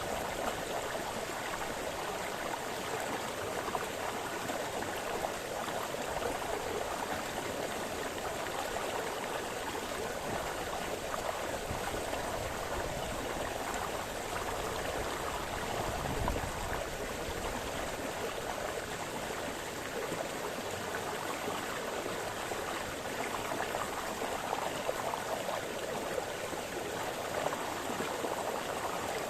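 Small brook splashing and gurgling steadily over stones. A brief low thump sounds about halfway through.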